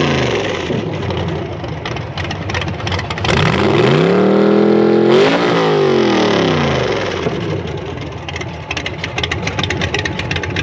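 A truck engine is revved: a rev dies away at the start, then the engine climbs, holds high for about a second and a half, and drops back. Near the end it settles into an idle with rapid, even exhaust pulses.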